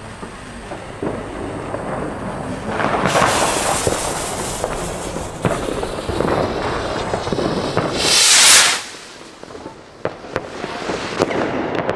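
Comet Tornado rockets going off: long hissing rushes of burning rocket motors with scattered sharp pops. The loudest rush comes about eight seconds in and cuts off suddenly.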